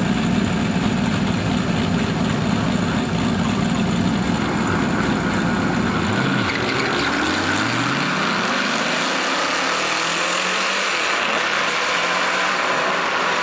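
Drag-racing cars with V8 engines, a C5 Corvette and an LS1-swapped Miata, running loudly. About six seconds in the deep low rumble drops away, and rising engine notes follow as a car accelerates through the gears.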